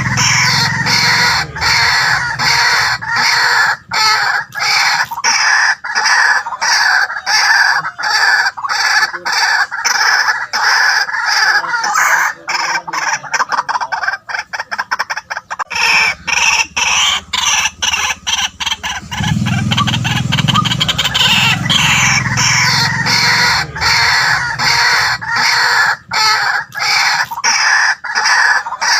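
White-breasted waterhen calling loudly: a continuous run of rapidly repeated harsh 'kwak' notes, which crowd into a faster stutter about halfway through.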